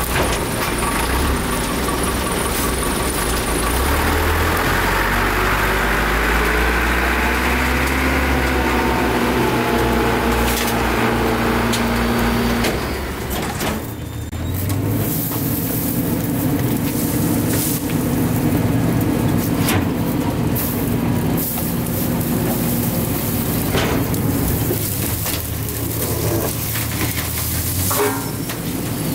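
CNG-powered Autocar garbage truck engine running and rising in pitch under load as the Heil Durapack rear loader's packer cycles, compacting brush and bulky waste. Sharp cracks and knocks come through several times in the second half.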